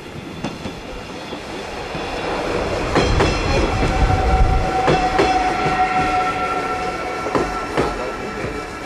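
Veolia Stadler GTW electric multiple unit running past along the platform: a rumble builds, and its wheels click sharply over rail joints several times. Through the middle a steady high whine rings out above it.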